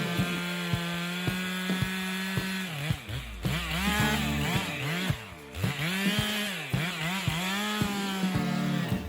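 Chainsaw running at high revs, then from about three seconds in its pitch repeatedly drops and climbs back as the engine speed changes.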